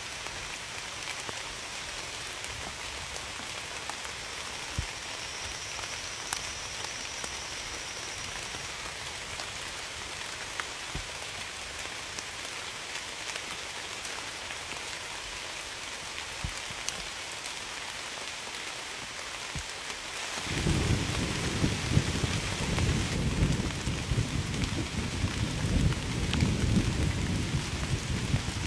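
Steady rain falling, with scattered drops ticking. About twenty seconds in, low rolling thunder comes in and keeps rumbling.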